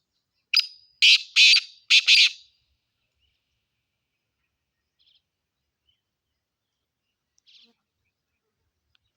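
Black francolin (black partridge) calling: a short opening note followed by a quick run of loud, harsh notes, the whole phrase lasting about two seconds. A couple of faint, short notes follow later.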